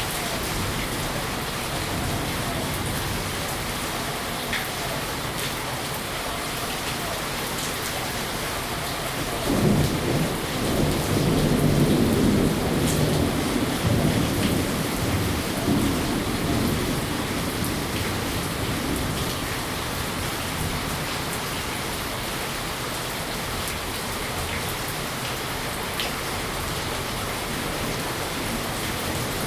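Steady rain with a low rumble of thunder that sets in about ten seconds in and fades away over several seconds.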